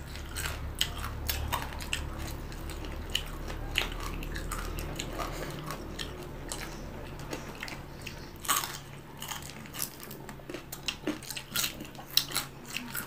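Chewing and crunching of crispy fried tilapia, eaten by hand: a run of irregular, sharp crunches with wet mouth sounds, one louder crunch about two-thirds of the way through.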